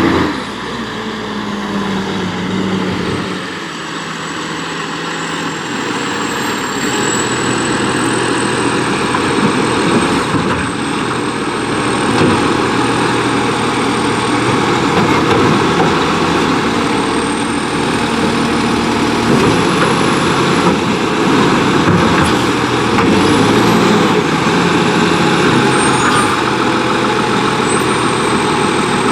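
Diesel engine of a McNeilus AFE garbage truck on a Condor chassis running, its pitch stepping up and down as it revs, with a thin high whine over it.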